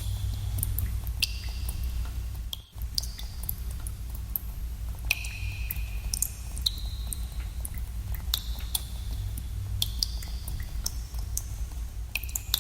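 Water drops falling into pools in a cave, plinking at irregular intervals, each drop a sharp click with a short high ringing tone. A steady low rumble sits underneath, and it briefly cuts out a little under three seconds in.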